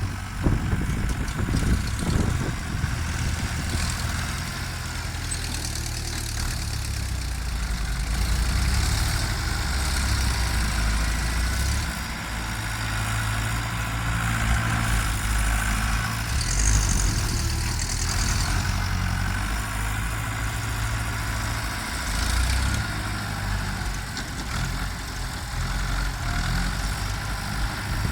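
Ford New Holland tractor diesel engines running while working, a steady low drone that swells and eases from moment to moment.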